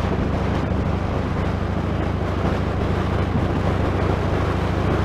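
Wind noise on a Sena Prism Tube action camera's external microphone while riding: a steady rumbling rush, heaviest in the low end, which the uploader calls terrible.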